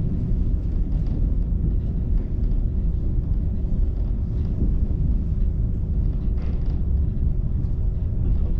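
Diesel railcar running steadily along the line, heard inside the passenger cabin: a continuous low rumble with a steady hum.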